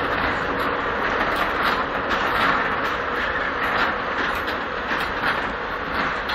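Coal-loaded open freight wagons rolling past on the rails: a steady rumble of wheels on track with repeated clacks as the wheels cross rail joints.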